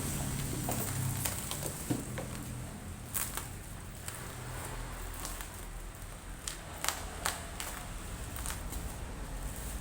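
Irregular clicks, taps and light rustling of hands handling a laptop and its packaging, over a faint low hum.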